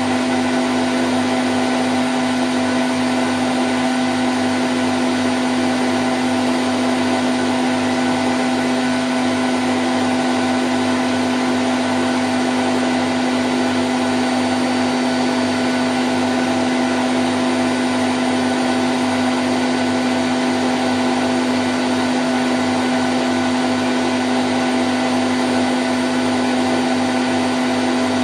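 Candy Grand O' F106 washing machine on its spin cycle at 1000 rpm, the drum and motor giving a steady, unbroken whirring hum with a constant tone.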